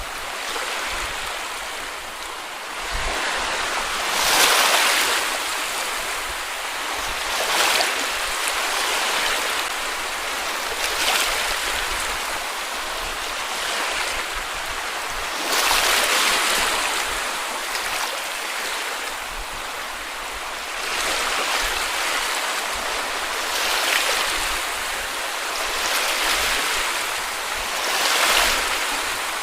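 Small sea waves breaking and washing up a beach: a steady rush of surf that swells each time a wave breaks, about every three to four seconds.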